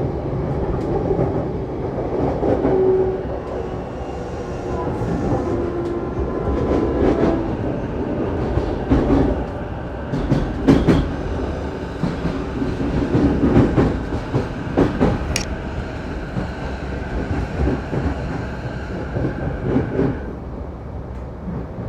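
Running sound of a JR Saikyo Line electric commuter train heard from inside the carriage: a continuous rumble of wheels on rail, with repeated clicks and knocks over rail joints and a faint steady motor whine.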